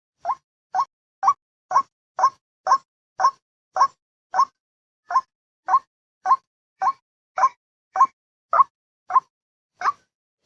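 White-breasted waterhen (ruwak-ruwak) calls used as a trapping lure: a steady series of short 'wak' notes, about two a second, each with a quick upward turn.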